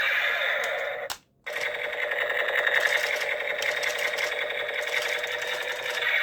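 Rapid, continuous rattling clatter of a toy gun, a fast run of clicks that stops dead for a moment just after a second in, then resumes.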